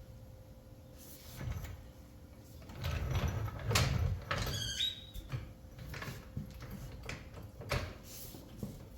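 Clanks, knocks and scraping from jacking up a lawn tractor to take a wheel off, busiest a few seconds in, with one short high squeak falling in pitch about halfway through.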